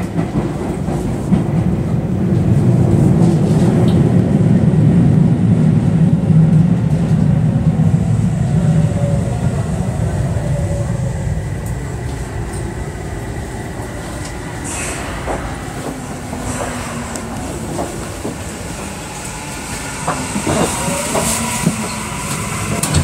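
Tokyu 3000 series electric train heard from inside the car. Wheel-on-rail rumble is loud for the first several seconds, then eases as the train slows on its approach to the terminal station. A few clacks over track joints come in the second half.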